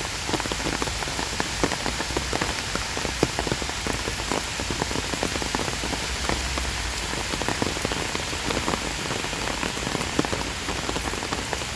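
Steady rain falling, with a constant hiss and many close, distinct drop impacts.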